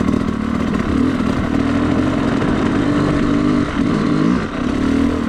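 Yamaha YZ250 two-stroke dirt bike engine running under way, its pitch dipping and rising again about four seconds in as the throttle is worked, over a steady rushing noise.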